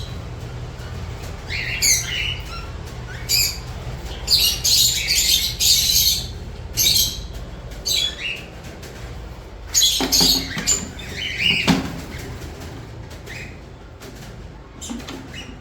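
Small pet parrots in an aviary cage chirping in short, high-pitched calls that come in repeated bursts, over a low steady hum that fades about halfway through.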